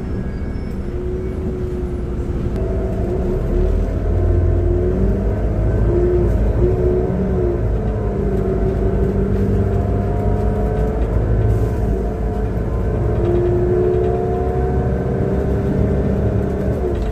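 Transperth bus TP1422's engine and drivetrain running as the bus drives, a deep rumble under several whining tones that rise and fall with the engine speed. This is the engine sound the uploader calls bad.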